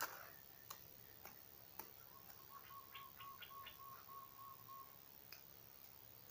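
Faint bird call: an even run of short, same-pitched notes lasting about three seconds, over a few scattered sharp ticks.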